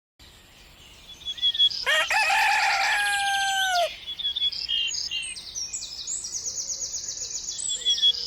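A rooster crows once, a long call that drops in pitch at the end, with small birds chirping and trilling around it.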